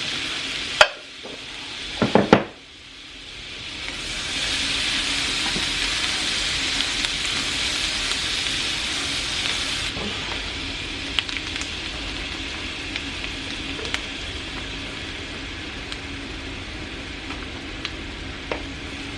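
Butter melting with onion and garlic in a hot pan, sizzling steadily; two sharp clinks near the start, then the sizzle swells a few seconds in and holds, with a few light ticks.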